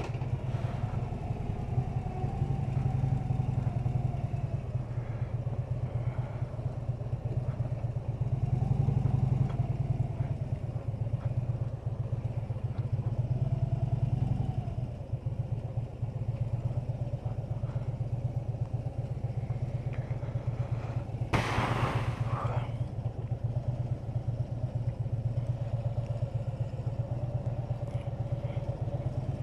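Harley-Davidson Electra Glide's V-twin engine running at low speed, with a steady low drone and small rises in engine note twice in the first half. A brief loud noisy burst comes about two-thirds of the way through.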